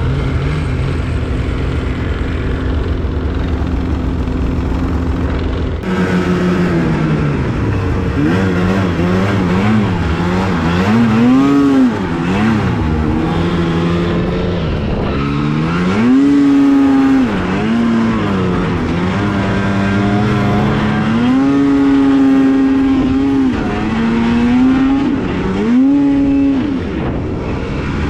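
Two-stroke snowmobile engine running at a steady speed, then from about six seconds in revving up and down again and again, its pitch rising and falling.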